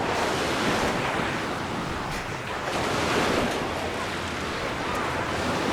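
Sea waves breaking and washing up a beach: a continuous rush that swells and eases, loudest about three seconds in, with some wind on the microphone.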